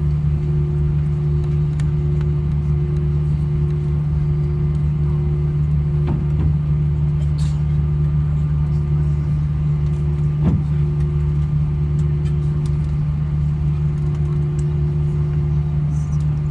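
Steady low drone and rumble inside an Airbus A320's cabin after landing, from the engines and air system, with a constant hum and a faint brief knock about ten seconds in.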